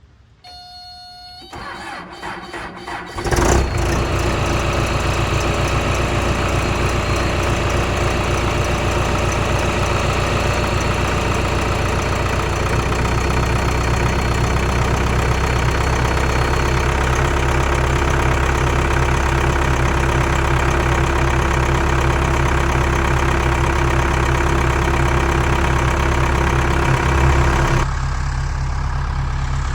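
Skid steer engine being started: a short electronic beep, about two seconds of the starter cranking, then the engine catches and runs steadily. It sounds duller near the end.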